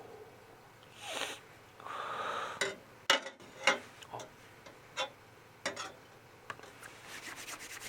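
A sniff and a short breath, then scattered sharp pops and clicks about half a second to a second apart, ending in a quick run of small crackles: a wood bonfire crackling.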